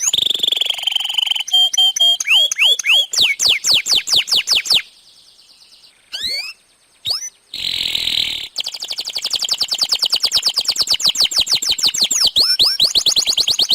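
Domestic canary singing: a held note, then fast trills of rapidly repeated falling notes, a brief pause about five seconds in, a harsh buzzy note, and a long rapid trill to finish.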